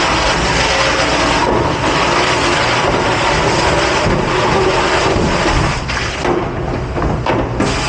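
Loud, steady rushing noise of a restaurant dish pit at work, with the hiss thinning out briefly a few times near the end.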